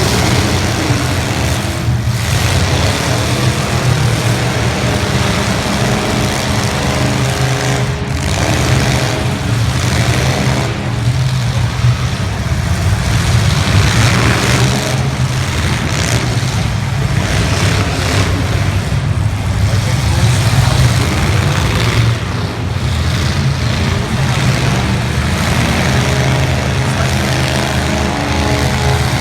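Demolition derby cars' engines running and revving loudly, a continuous dense mechanical din.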